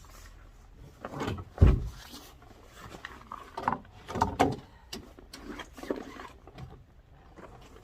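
Irregular knocks and clatter of objects being handled, with the loudest a heavy thump about a second and a half in.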